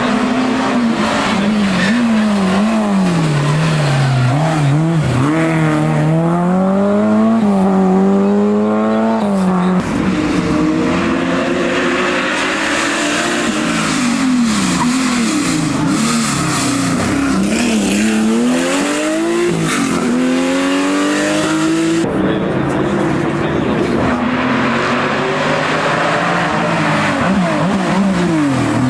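Historic rally car engines at full throttle on a special stage, their pitch climbing through each gear and dropping at every shift, with revs rising and falling through the bends. The sound changes abruptly about a third of the way in and again about three quarters through, as one car's pass gives way to the next.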